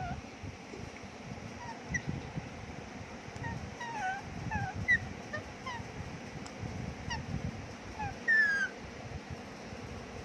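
Parrot making a string of short squawks and chirps, most dropping in pitch, with a louder one about halfway through and a longer call near the end.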